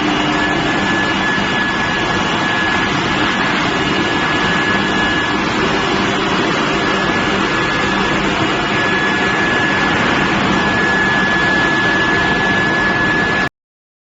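Steel billet induction preheating furnace running: a steady high-pitched whine over a loud, even machinery noise, cutting off suddenly near the end.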